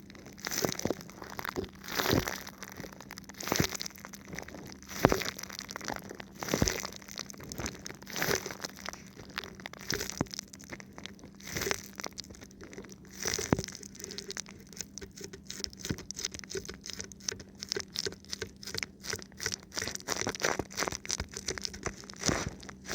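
Thin plastic film wrapped over a microphone, rubbed and touched by fingers: irregular crinkling and crackling. It has louder swishes about every second and a half in the first half and a denser run of fine crackles later.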